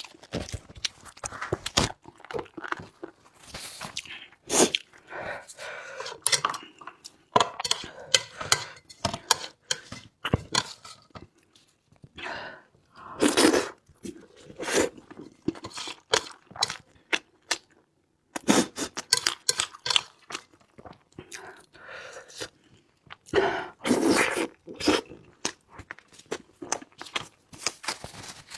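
A person chewing and crunching food close to the microphone, in irregular bursts of wet clicks and crunches with short pauses between mouthfuls.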